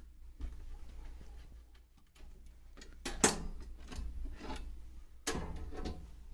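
Handling noises: scattered clicks and knocks, with two sharper knocks about three seconds in and about five seconds in, each followed by a short ring.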